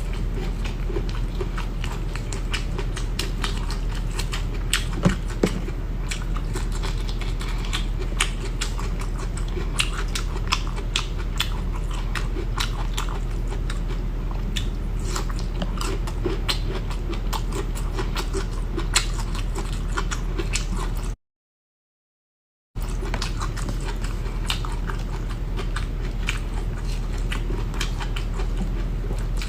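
A person biting and chewing spicy bamboo shoots, with many sharp clicks and crunches over a steady low hum. The sound cuts out completely for about a second and a half, about two-thirds of the way through.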